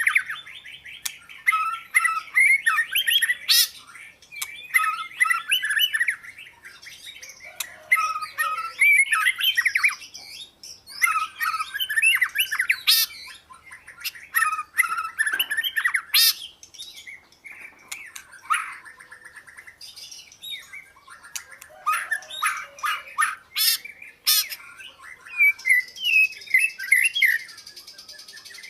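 Oriental magpie-robin singing: rapid, varied whistled and scratchy phrases in bouts of a second or two with short pauses between them, with a few sharp clicks scattered through.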